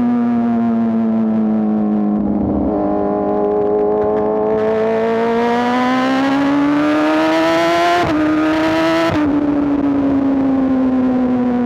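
2024 BMW S1000RR's inline-four engine under way: the note sags a little, then climbs steadily as the bike accelerates, jumps briefly about eight seconds in, and drops a second later as it shifts up, settling into a steady cruise.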